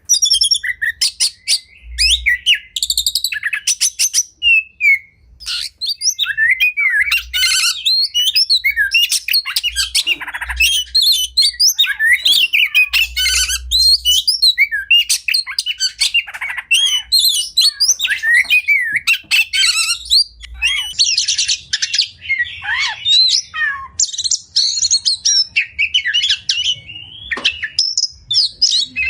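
Oriental magpie-robin (kacer) singing a long, varied song of fast whistled phrases, sharp chirps and rapid trills, with hardly a pause.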